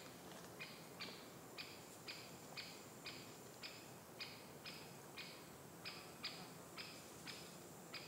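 A bird repeating a short, sharp call note about twice a second, steady and even.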